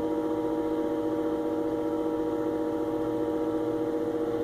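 Steady machine hum made of several fixed pitches, with a slight even pulsing and no change in speed.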